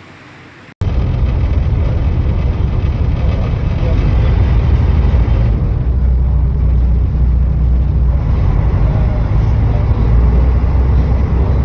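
Loud, steady low rumble with a noisy wash over it, starting abruptly about a second in after a quieter stretch. Faint seagull calls waver above it now and then.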